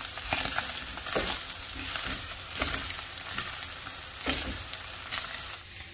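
Diced beef, onion and garlic sizzling steadily in rendered fat in a large pan, stirred with a wooden spatula that scrapes the pan bottom now and then. The steady sizzle means the meat's juices have cooked off and it is browning in the fat.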